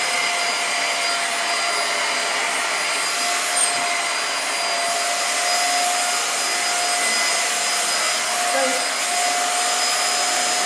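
Portable vacuum cleaner running steadily at full power: a steady motor whine over a rushing airflow hiss.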